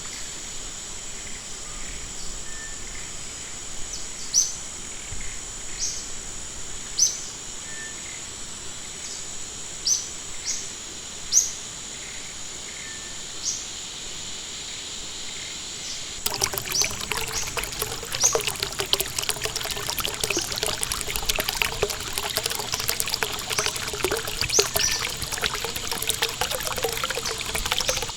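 A bird repeating short high chirps over a steady high hiss, then a little past halfway the sound of trickling, splashing stream water cuts in suddenly and runs on under the chirps.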